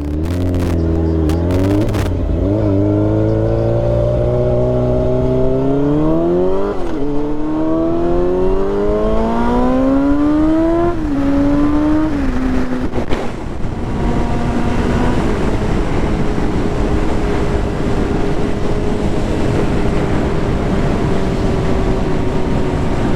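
Motorcycle engine accelerating hard through the gears: the pitch climbs, drops at each upshift about 2.5, 7 and 12 seconds in, then settles into a steady cruise under loud wind rush.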